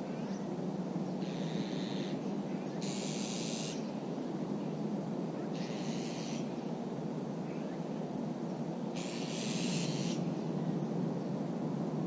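Outdoor ambience: a steady low rushing noise, with short, harsh, high hissing calls repeating every two to three seconds.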